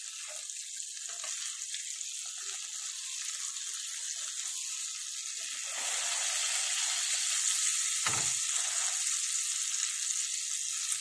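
Beef burger patties sizzling in hot oil in a non-stick frying pan. The sizzle grows louder about halfway through as a slotted metal spatula goes onto the patties, and a single knock of the spatula follows a couple of seconds later.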